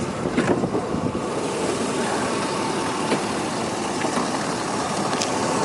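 2003 Hummer H2's 6.0-litre V8 idling steadily, with a few faint clicks over it.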